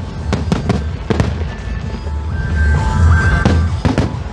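Aerial fireworks bursting: a quick run of sharp bangs and crackles in the first second or so, then two more bangs near the end, over a steady low rumble.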